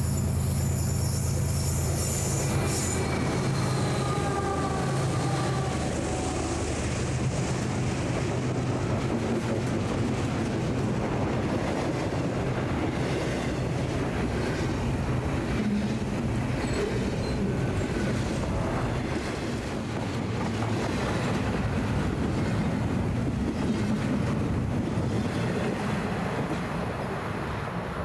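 BNSF freight train rolling past. The locomotive's low engine drone fades in the first few seconds and gives way to a steady rumble of freight cars with rapid wheel clatter over the rail joints, easing off near the end.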